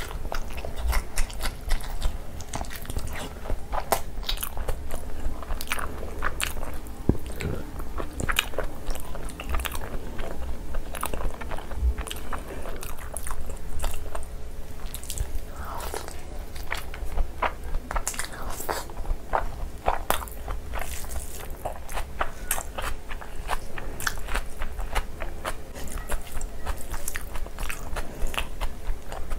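Close-miked eating: chewing and biting on boiled egg and curry-soaked rice eaten by hand, heard as a dense run of small, irregular wet clicks. A steady low hum runs underneath.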